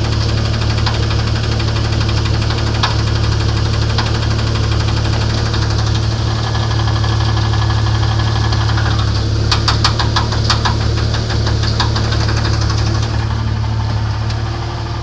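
1994 Jeep Grand Cherokee's 4.0-litre straight-six running with a knock in the engine. A quick run of sharp ticks comes about two-thirds of the way in.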